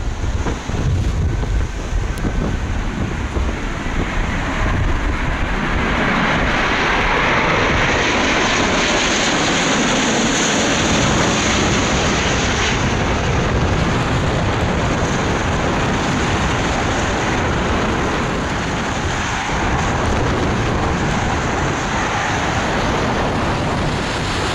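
Airbus A350-900's Rolls-Royce Trent XWB engines on landing, a steady jet noise that swells to its loudest about a third of the way in and then holds, with gusty wind buffeting the microphone.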